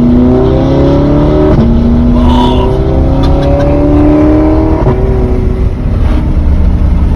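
Straight-piped, naturally aspirated V8 of an Audi R8 pulling hard under acceleration. The exhaust note rises in pitch and drops sharply at two upshifts, about a second and a half in and again near five seconds, then climbs again after each.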